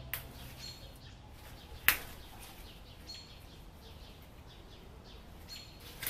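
Faint bird chirps now and then, short and high, over a quiet background, with one sharp click about two seconds in.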